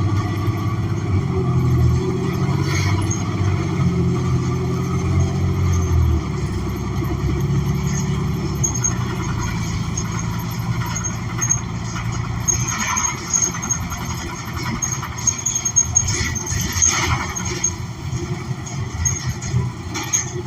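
Interior sound of a New Flyer XN40 transit bus on the move: its Cummins Westport ISL G natural-gas engine pulls strongly, then eases off about six seconds in, leaving a lower running hum with a few brief high squeals later on.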